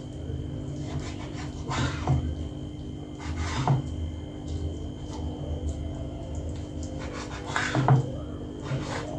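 Knife cutting through raw marinated chicken on a chopping board: a few separate slicing strokes, each with a rub of the blade and a low knock on the board, over a low steady hum.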